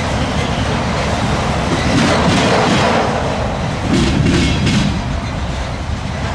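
Train rolling past, its wheels clattering over a railroad diamond crossing, with a few sharp clacks about four seconds in.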